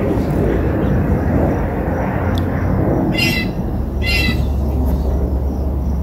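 A bird gives two short calls about a second apart, over a steady low rumbling noise that is the loudest sound throughout.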